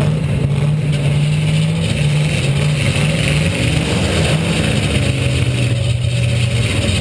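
Demolition derby car's V8 engine running under throttle, heard loud and close from on board the car; its pitch drops a little about halfway through.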